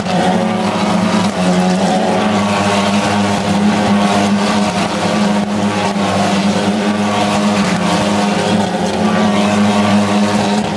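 A car engine running at a steady, held speed, a loud, even drone that neither rises nor falls.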